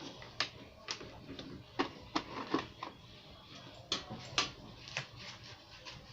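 Irregular light clicks and taps, a dozen or so in a few seconds, from hands working on a mixing desk and handling its small parts.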